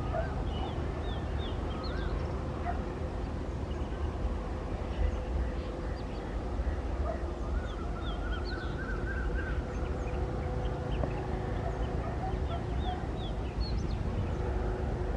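Birds chirping again and again, with a warbling call about halfway through, over the steady low rumble of a DEMU train's diesel engine idling at the platform.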